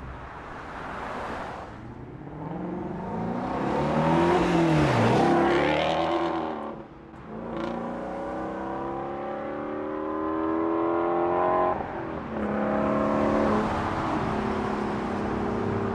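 Car engines with loud aftermarket exhausts: one car goes by with its engine pitch swooping about four to five seconds in, then an engine revs up steadily for about four seconds and cuts off sharply, followed by another shorter burst of engine noise.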